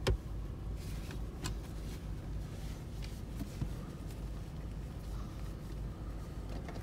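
Car engine idling, a steady low rumble heard from inside the cabin, with a single knock right at the start.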